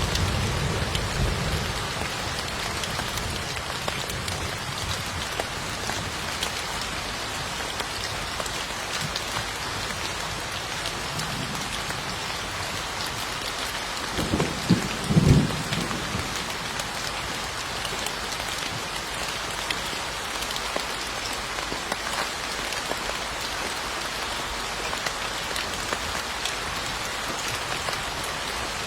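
Steady rain falling, with low thunder rumbling at the start and again briefly about halfway through.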